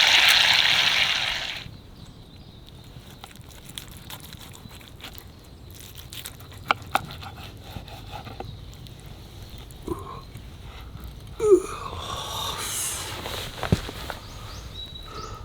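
A loud hiss like food sizzling that cuts off abruptly under two seconds in, then the quieter crackle of a wood campfire with scattered pops, a few short squeaks and a knock near the end.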